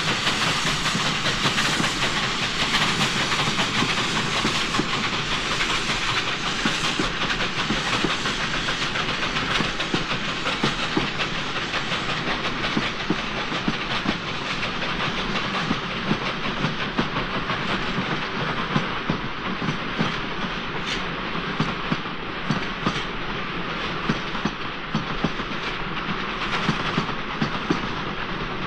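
Steam-hauled train on sharply curving track, its wheel flanges squealing and groaning on the curves, over a steady grinding noise and a rapid, irregular clatter of wheels on rail.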